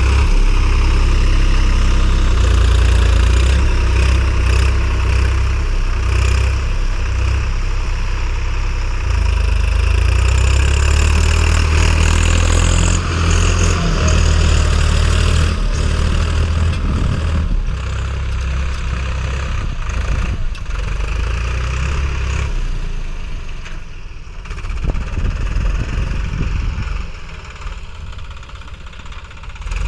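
Swaraj 855 FE tractor's three-cylinder diesel engine running steadily while working a cultivator. It grows quieter and less steady from about 22 seconds in.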